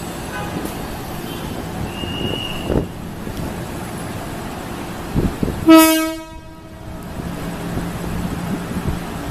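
Electric commuter train rolling slowly through a station with a steady rumble and a few low clunks. About six seconds in, its horn sounds one loud blast of a little over a second.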